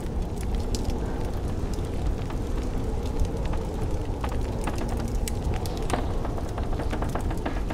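Wood fire crackling in a fireplace, with irregular sharp pops over a steady low rush of blizzard wind.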